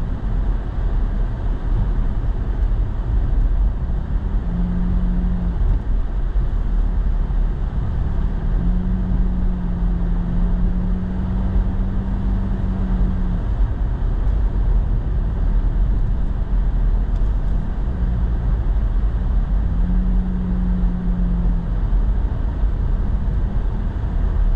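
Truck driving on packed, treated snow, heard from inside the cab: steady road and engine noise, with a low hum that comes and goes three times.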